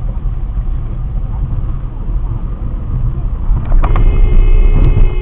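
Loud low rumble of a vehicle driving, then about four seconds in a long steady car horn blast sounds over it, with a few sharp clicks as it starts.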